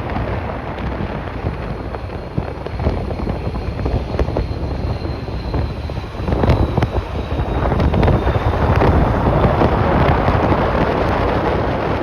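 Strong gusty wind buffeting the microphone, getting louder about halfway through. A faint high whine sits underneath, falling slightly in pitch.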